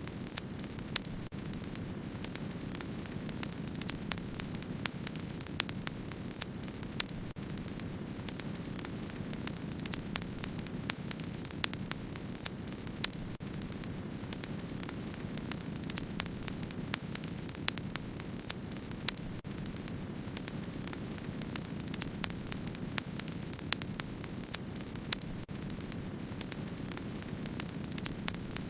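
Wood fire crackling: frequent irregular sharp snaps and pops over a steady low rushing of the flames.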